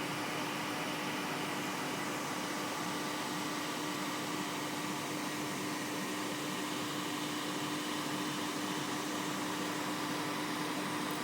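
A steady hiss with a constant low hum under it, unchanging throughout, like a fan or other appliance running.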